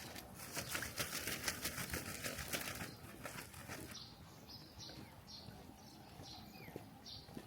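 A dense, rapid rustling crackle for about the first three seconds, then a small bird chirping in short high calls repeated about twice a second.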